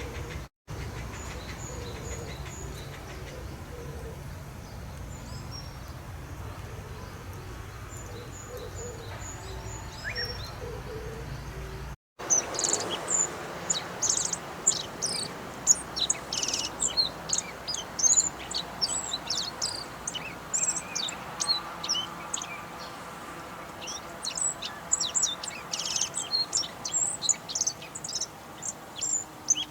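Wild bird calls in two recordings. The first has faint high notes over a steady low rumble. About twelve seconds in, it cuts to a dense run of short, high chirps from several birds.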